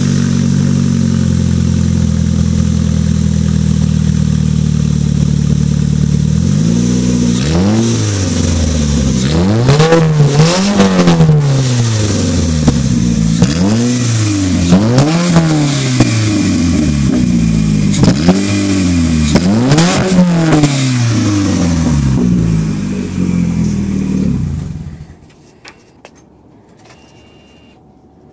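Saturn Sky engine running with no exhaust pipe or muffler fitted: a steady idle, then blipped up and back down about seven times in a row, back to idle, and shut off near the end.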